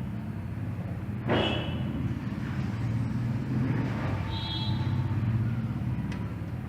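Motorcycle engine running steadily, with a short louder burst about a second in.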